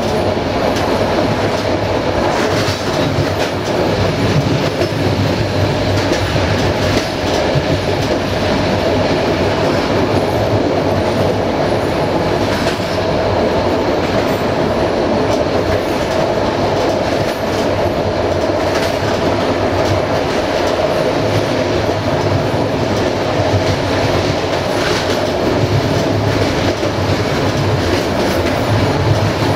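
Moving passenger train heard from aboard a coach: a steady rumble and hum of wheels on rail, with occasional clacks over rail joints.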